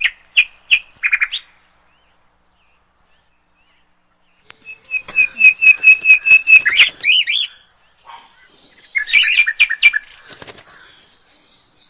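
Birds chirping: a few quick high chirps, a pause of about three seconds, then a fast run of repeated chirps ending in upward-sweeping notes, and another cluster of chirps a few seconds later.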